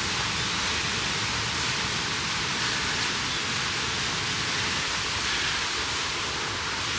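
Mountain stream flowing: a steady rushing of water.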